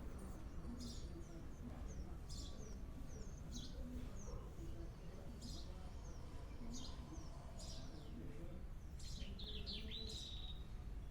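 Songbirds chirping: short, sharp high chirps every second or so, with a quick run of notes and a longer held whistle near the end. A low steady rumble underneath.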